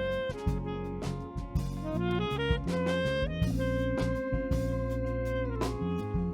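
Live band of saxophone, piano, bass and drums playing an instrumental passage, with a long note held in the middle over steady drums.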